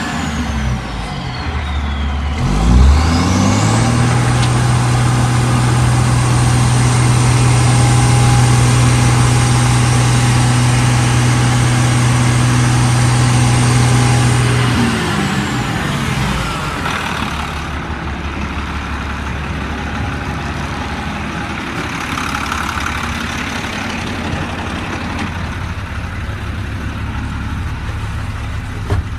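1999 International DT466E inline-six turbodiesel, not yet at full operating temperature. It winds down toward idle, is revved up sharply a few seconds in and held at high rpm for about eleven seconds, then drops back to a steady idle.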